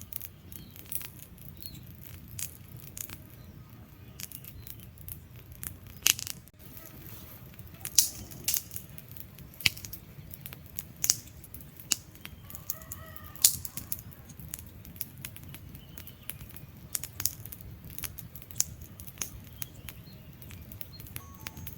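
Wood fire in a fireplace crackling: irregular sharp pops and snaps over a low steady rumble of flames, with a handful of louder pops in the middle.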